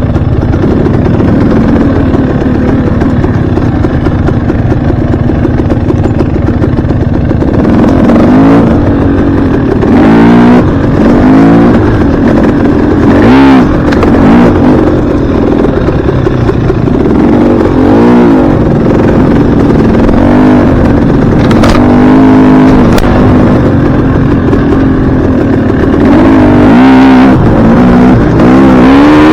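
Dirt bike engine running loudly under way, holding a steady pitch at first and then revving up and down again and again as the throttle is opened and closed.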